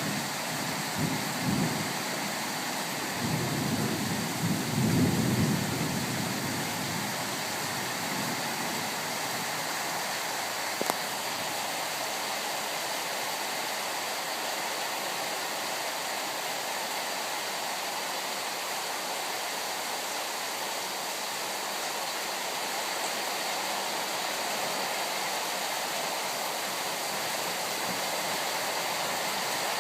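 Steady heavy rain falling, with low rumbles of thunder swelling over the first several seconds, and one brief sharp tap about eleven seconds in.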